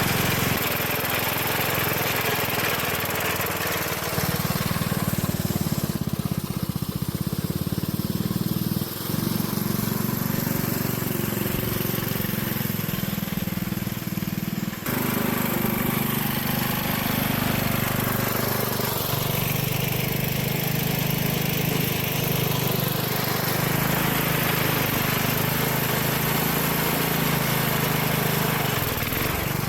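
Wheel Horse 607 garden tractor's 8 hp Briggs & Stratton single-cylinder engine running steadily, its note shifting a few times; it runs well after the carburetor was tuned.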